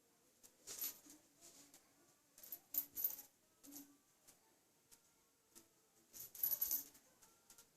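Light metallic jingling and clinking in three short bursts, from cats playing with a string.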